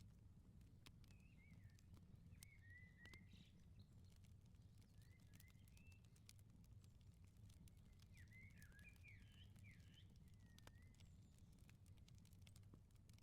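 Faint crackling wood fire, with scattered sharp pops and clicks, while small birds chirp in short rising and falling calls, a busier flurry of them about two-thirds of the way in, over a low steady rumble.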